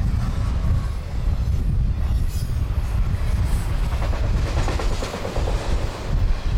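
Intermodal freight train of double-stack containers and trailers on well cars passing close by at speed: a loud, steady low rumble of steel wheels on the rails, with a denser clatter of the cars from about four to six seconds in.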